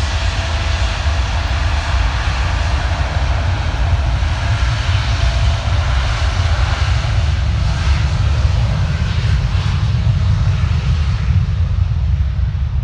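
Jet airliner's engines running loudly as it passes, a deep rumble with a hiss over it. The hiss grows duller near the end.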